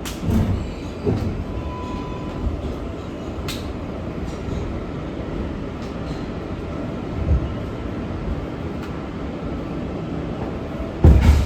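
Interior of an R188 subway car on the 7 train rolling into its terminal station: a steady low rumble of wheels and motors with a few low thumps from the track. A loud clunk comes near the end.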